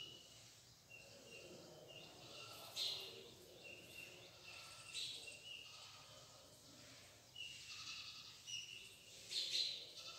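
Faint birds chirping: short, high chirps repeating every second or so over quiet room tone.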